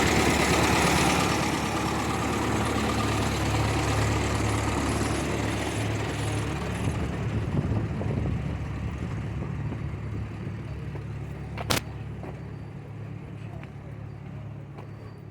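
Engine running steadily, with a rushing noise that fades away over the first several seconds; a single sharp click about twelve seconds in.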